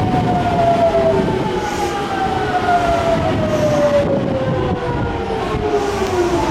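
Nankai electric train slowing into the station: its traction motors whine in several layered tones that fall steadily in pitch over the rumble of the cars on the rails.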